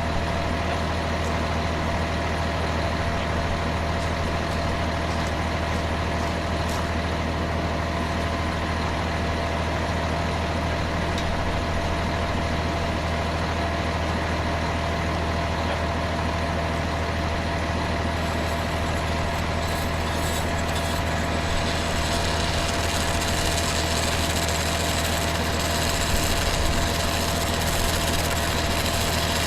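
An engine idling steadily, with a deep low hum and a constant faint whine. More light rattling and clatter comes in from about twenty seconds in.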